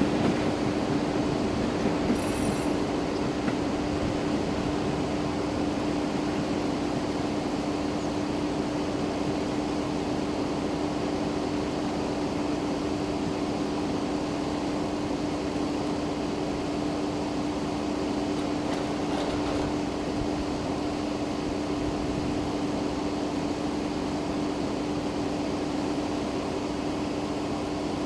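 Train running through a railway level crossing: a steady rumble with a steady low hum that holds level throughout.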